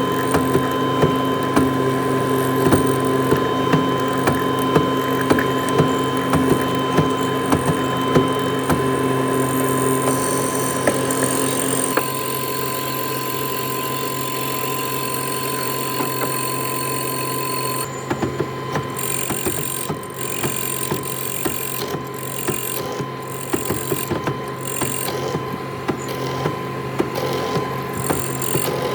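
Woodworking machinery running steadily, with a constant whine and a low hum, and rapid small ticks through the first part. The sound changes abruptly twice, about twelve and eighteen seconds in.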